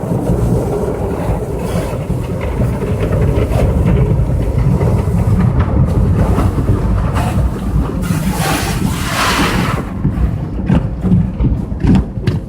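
Car wash equipment running with water spraying onto a car: a loud, steady low rumble, with a brighter hiss of spray from about eight to ten seconds in and a few short knocks near the end.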